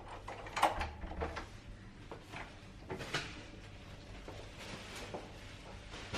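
A series of sharp household knocks and clatters, the loudest about half a second in and softer ones scattered after, as garbage is handled and carried out.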